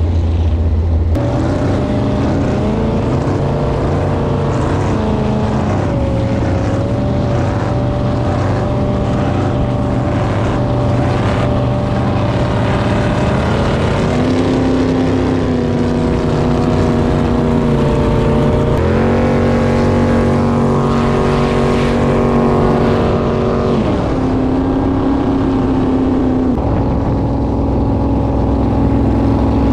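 Jet boat's V8 engine running on the water, its note stepping up and down several times as the throttle changes.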